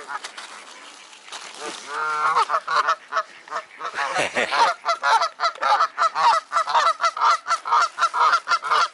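Waterfowl honking: a couple of calls about two seconds in, then a loud, rapid run of repeated honks, several a second, from about four seconds in.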